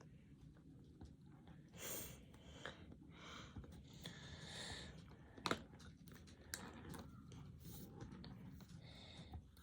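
Colored pencils scratching on paper in short, faint strokes, with a few light taps and clicks of pencils on the table and a sharper tap a little past halfway.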